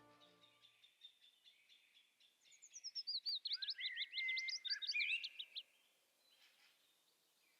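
A small songbird singing: faint high chirps, then one loud, fast phrase of about three seconds whose notes first slide down in pitch and then jump rapidly up and down.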